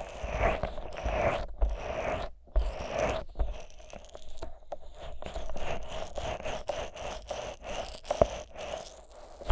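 Vaseline-coated fingers rubbing and massaging the silicone ears of a 3Dio binaural microphone. The thick, sticky Vaseline gives a close, wet rubbing in short, irregular strokes, with one sharper pop a little after eight seconds.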